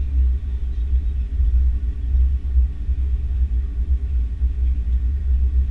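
Steady deep rumble inside the cabin of an Airbus A330-300 airliner.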